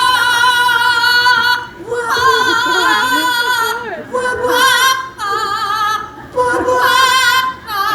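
Operatic singing in long, wavering held notes: a person starting an opera phrase and a yellow-headed Amazon parrot taking the solo, the notes coming in several phrases with short breaks between them.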